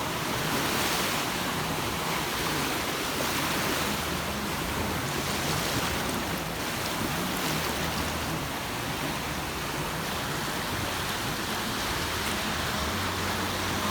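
Sea waves washing onto a beach: a steady rush of surf that swells and eases slightly.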